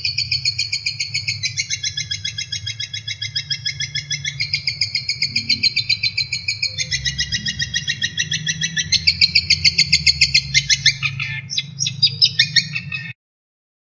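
Recorded songbird song of fast, repeated trilled notes, the 'tembakan' (shots) used to tutor caged birds, shifting to a new phrase every second or two over a low hum. It breaks off suddenly about thirteen seconds in.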